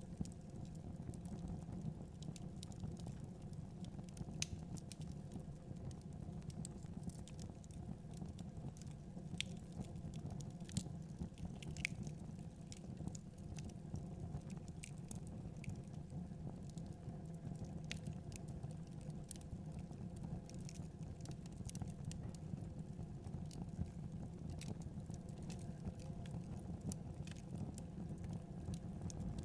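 Wood fire crackling, with scattered sharp pops, over a steady low rumble of blizzard wind.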